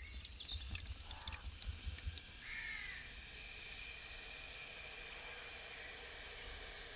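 A bird calling twice with short harsh caws, about a second and two and a half seconds in, over a faint steady hiss.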